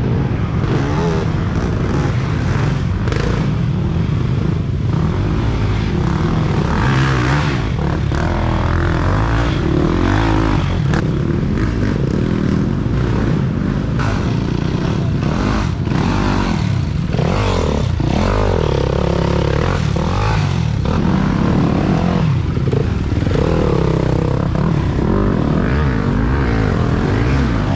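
Several dirt bike engines revving up and falling back as the bikes pass one after another, with overlapping engine notes and no break.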